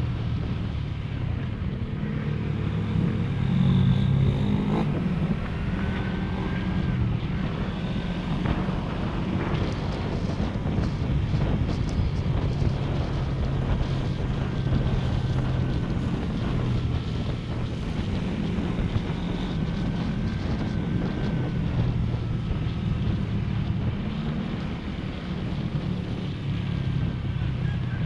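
Motorcycle engine running steadily while riding, its pitch shifting slightly, with wind noise on the microphone.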